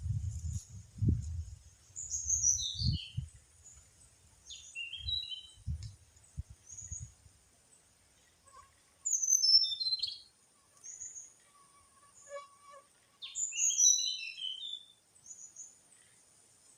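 A small songbird calling: a run of quick high notes falling in pitch, repeated about every four to five seconds, with short high chirps in between. Low rumbling thumps sound in the first few seconds.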